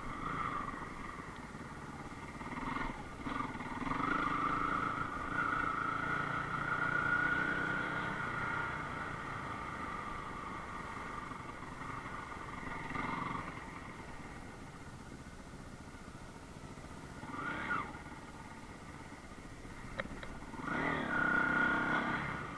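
Enduro motorcycle engine running and revving, its pitch wavering, with quick revs rising in pitch about three-quarters of the way through and again near the end.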